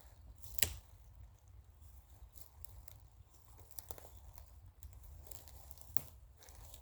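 Woodpecker pecking and chipping at wood with irregular, scattered taps. There are two sharper knocks, about half a second in and near the end.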